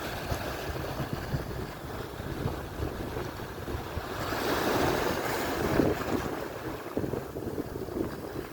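Atlantic surf: a wave breaking and washing in, swelling louder about halfway through and then easing off, with wind rumbling on the microphone.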